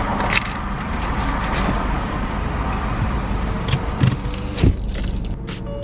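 A car's engine and road noise heard from inside the vehicle, a steady low rumble with a few light clicks and rattles.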